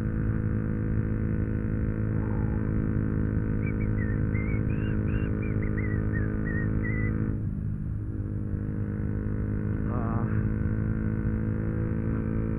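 Yamaha YZF-R125's 125 cc single-cylinder four-stroke engine running at a steady cruising speed, a constant drone that holds one pitch throughout. A faint warbling high sound comes and goes in the middle.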